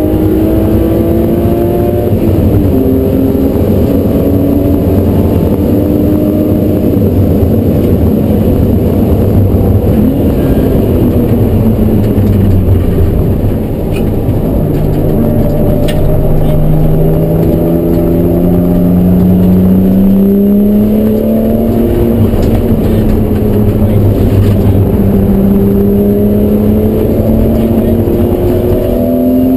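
BMW E36 M3's straight-six engine heard from inside the cabin, driven hard on a race track: it revs up through the gears and drops back as the car brakes and shifts for corners, over and over, with one long climb in pitch about halfway through.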